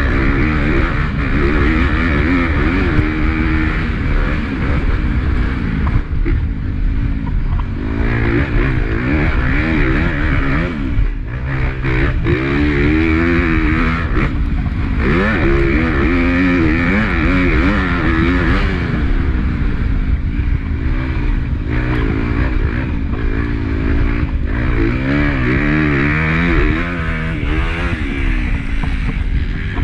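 Onboard sound of a Honda CRF250 four-stroke single-cylinder motocross bike racing: the engine revs rise and fall again and again as it accelerates, shifts and backs off, over constant wind noise. A few short knocks come around the middle.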